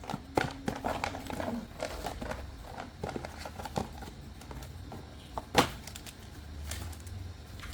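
Toys and packaging being handled, with scattered irregular clicks and taps and one sharper click about five and a half seconds in.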